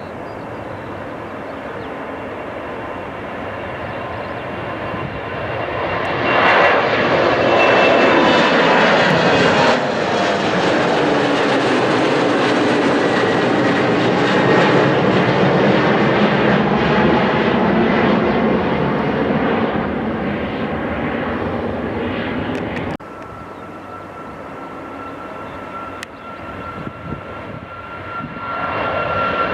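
Jet airliner passing close by: engine noise swells about six seconds in, stays loud with a sweeping, phasing quality, then eases off. It cuts off abruptly past twenty seconds. A second jet's noise starts rising near the end.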